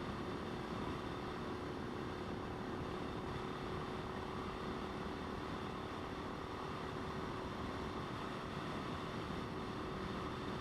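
Motorcycle riding at a steady speed: a constant engine hum under an even rush of wind on the microphone, with no change in speed.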